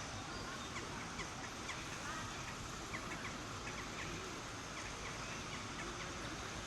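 Birds calling in short, repeated chirps over a steady background hiss of outdoor noise.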